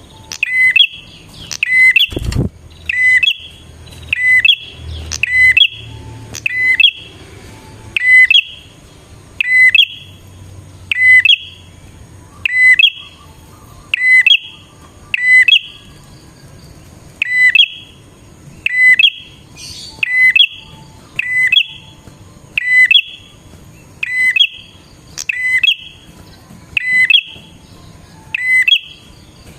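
Prinia (prenjak) calling over and over: sharp high notes in quick pairs, a pair about every second and a half, used as a lure call. A single thump comes about two seconds in.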